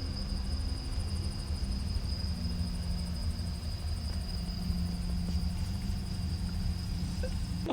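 Steady low rumble of a vehicle on the move, with a faint constant high-pitched whine above it.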